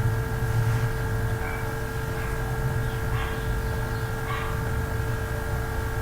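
Steady low electrical hum with a few fixed higher tones over it, and a few faint short chirps now and then: background hum with no speech.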